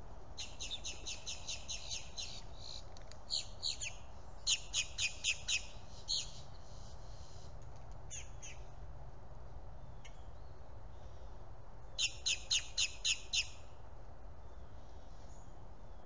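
A bird calling in quick runs of sharp, high notes, about five to nine notes to a run, with pauses between the runs; the longest runs come at the start and again about twelve seconds in.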